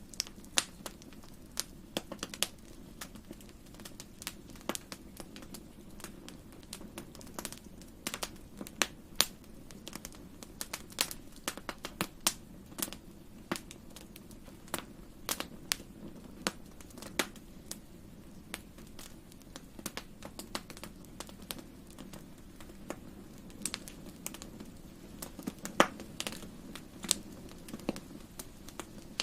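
Wood fire crackling in a fireplace: irregular sharp pops and snaps, several a second at times, over a steady low hiss of burning.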